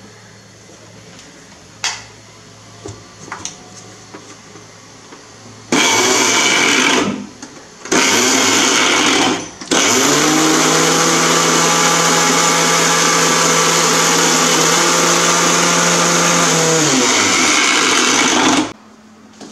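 Electric mixer grinder motor chopping leaves in its jar. A few clicks come first, then two short pulses of a second or so each, then one long run of about nine seconds. The motor pitch rises as it spins up, drops near the end, and the sound cuts off suddenly.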